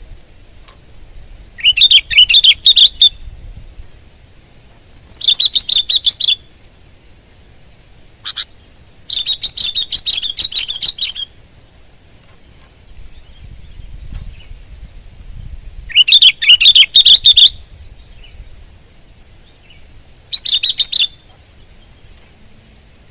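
Sooty-headed bulbul (kutilang) singing loud bursts of rapid song phrases, six in all, each a second or two long except one very brief one, with pauses of a few seconds between them.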